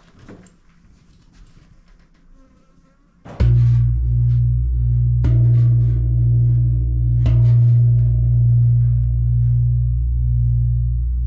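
A large temple gong struck about three and a half seconds in, then twice more about two seconds apart, each blow setting off a deep, loud, wavering hum that rings on without dying away.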